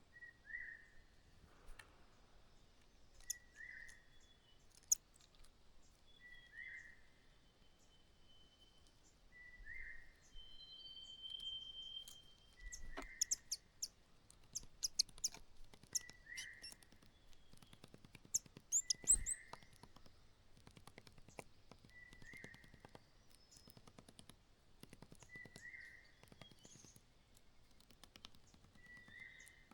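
Small birds calling: a short, falling call repeated about every three seconds, with higher thin chirps and a brief held whistle in between. Scattered sharp clicks and scratches, thickest in the second half.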